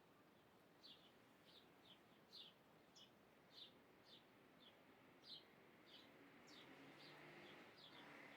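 Faint bird chirping: short, high notes that slide downward, repeating irregularly about twice a second. A soft hiss builds near the end.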